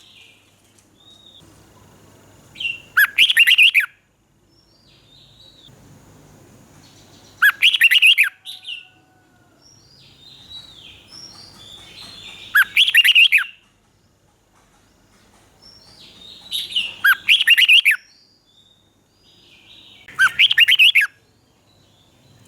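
Red-whiskered bulbul singing: five loud, short song phrases about every four to five seconds, with softer chirps between them.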